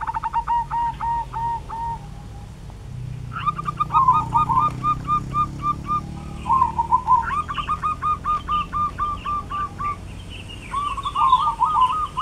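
Birds calling: one bird repeats a run of about eight to ten quick whistled notes, four times, with shorter calls from a second bird overlapping.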